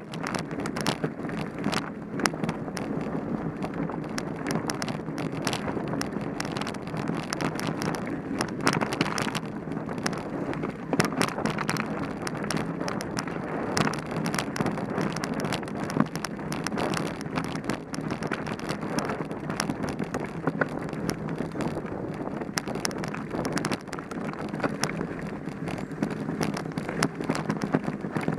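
Mountain bike ridden over a rough dirt trail: the tyres run on the ground while the chain and frame rattle, with frequent short knocks from bumps. Wind buffets the microphone throughout.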